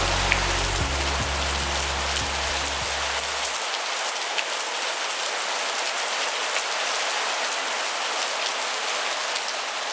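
Heavy rain pouring down: a dense, even hiss with many drops pattering on surfaces. A low steady hum underneath cuts off abruptly about three and a half seconds in.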